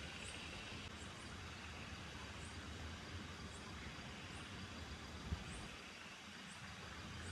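Steady rain falling, with a low rumble underneath. Faint high chirps recur about once a second, and a single sharp thump comes about five seconds in.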